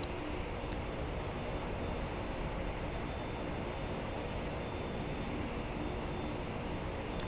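Jet airliner engines running with a steady, even roar and a faint hum in it.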